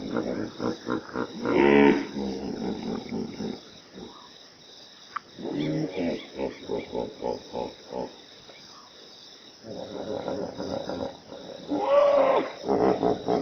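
Big cat roaring: a long roar about two seconds in and another near the end, each followed by a run of shorter grunting calls at a few per second that fade away.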